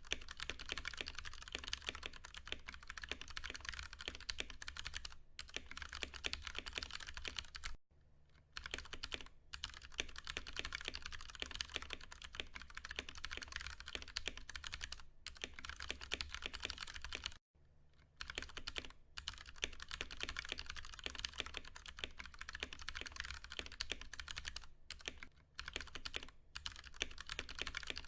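Continuous typing on a Ducky One 2 Mini mechanical keyboard with Cherry MX Brown tactile switches: a dense run of key strikes, broken by brief pauses about 8 and 17 seconds in. A faint steady low hum lies underneath.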